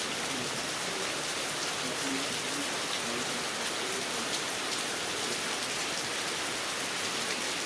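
Heavy rain falling steadily, an even dense hiss of drops on surfaces.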